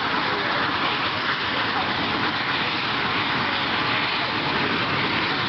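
Mil Mi-17 helicopter's twin turboshaft engines and main rotor running, a loud steady noise.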